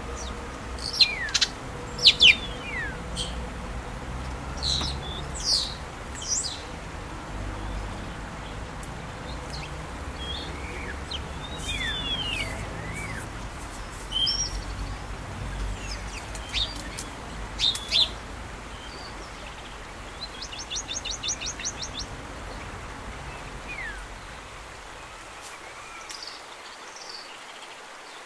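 Songbirds chirping and calling, with short falling whistles and one quick trill about two-thirds of the way through, over a steady low rumble that stops shortly before the end.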